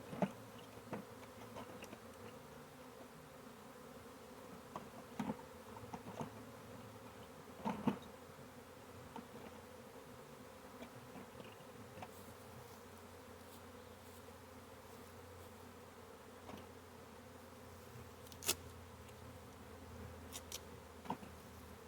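Honey bee swarm buzzing: a faint, steady hum of many bees, with a few light clicks and knocks now and then.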